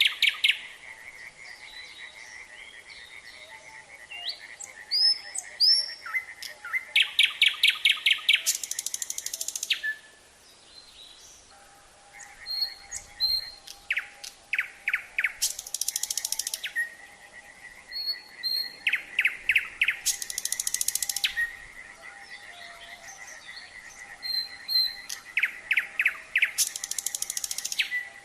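Nightingale singing in separate phrases of loud repeated notes, whistles and very rapid rattling trills, with short pauses between phrases. A steady fast-pulsing chorus of frogs goes on beneath.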